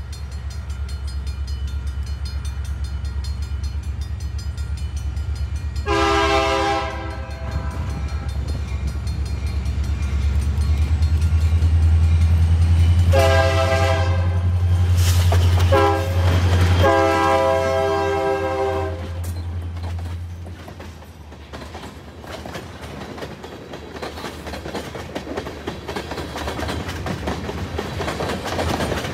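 Diesel locomotive approaching and passing, its engine rumble swelling and then fading, while it sounds its horn: one short blast about six seconds in, then a long, a short and a long blast. After it passes, the train's cars roll by with clicking wheels on the rail joints.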